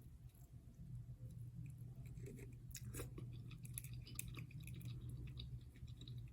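Close-miked chewing of crab and shrimp: a string of small, irregular wet clicks and soft crunches over a steady low hum.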